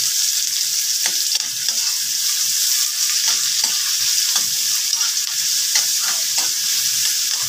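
Sliced onions and minced garlic sizzling steadily in hot oil in a wok while a metal ladle stirs them, scraping and tapping against the pan at irregular moments.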